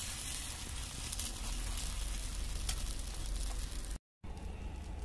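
Batter flatbread sizzling on a hot iron griddle, a steady hiss with a few faint clicks from the spatula. About four seconds in the sound cuts out for a moment and comes back quieter.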